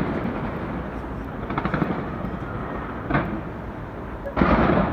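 Large aerial fireworks bursting: a run of crackles about two seconds in, a sharp bang a little after three seconds, and a heavy boom near the end.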